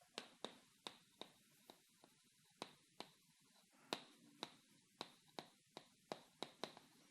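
Near silence broken by faint, short clicks at irregular intervals, about two a second.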